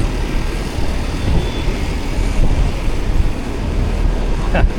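Steady low rumble of road traffic and riding noise heard from a moving e-bike, with a brief sharp sound near the end.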